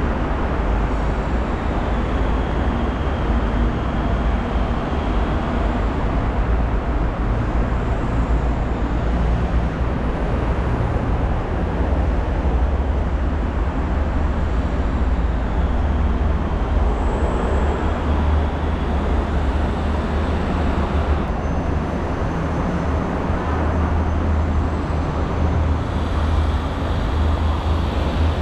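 Steady rumble of passing road traffic, with no sudden sounds standing out.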